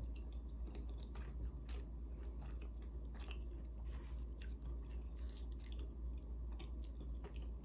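Close-miked chewing of soft food (pot roast in gravy and mashed potatoes), with many small wet mouth clicks and smacks scattered through, over a steady low hum.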